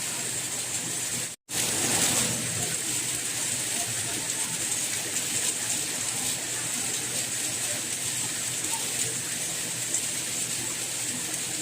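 Steady, even rain noise with no distinct drops standing out. It cuts out to silence for a split second about a second and a half in, then resumes slightly louder for a moment.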